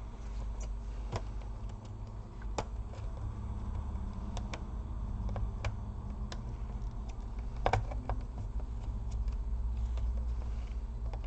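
Scattered small clicks and taps of plastic laptop parts and connectors being handled during reassembly, over a steady low hum. The sharpest click comes about two-thirds of the way through.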